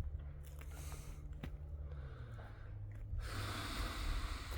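A person breathing close to the microphone, with a soft breath out starting about three seconds in, over a steady low rumble and a few faint ticks.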